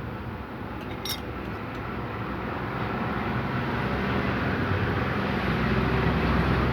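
A motor or engine running steadily in the background, growing louder toward the end, with a single sharp click about a second in.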